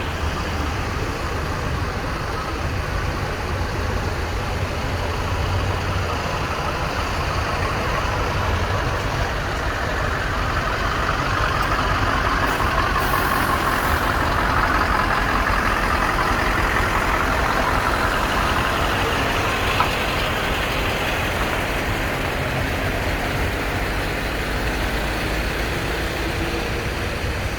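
Heavy vehicle engine running steadily with a low rumble, growing louder and noisier through the middle before easing off again.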